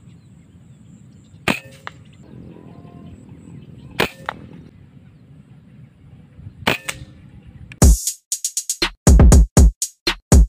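Three air-rifle shots a couple of seconds apart, each a sharp crack followed a fraction of a second later by a fainter click, over faint outdoor background noise. About two thirds of the way in, electronic music with a heavy repeating drum-machine beat starts.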